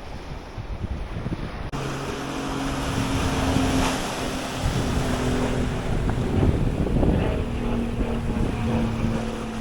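Wind buffeting the microphone over surf washing on the beach, a steady noisy rush that turns abruptly louder about two seconds in, with a faint low hum underneath.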